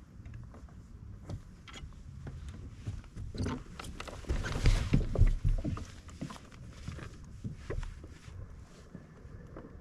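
Knocks, clicks and rubbing on a fishing kayak over a low rumble, with a louder cluster of knocks about halfway through.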